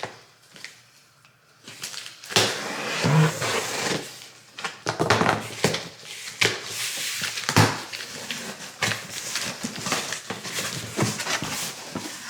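Large cardboard shoe box being opened and its packing rustled as the motorcycle boots are taken out, with scattered knocks and crinkles of handling; the rustling starts about two seconds in.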